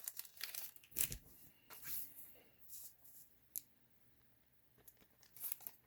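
Faint rustling and sliding of a trading card being slipped into a plastic sleeve, in short scattered scrapes with a few light clicks, one sharper tick about three and a half seconds in.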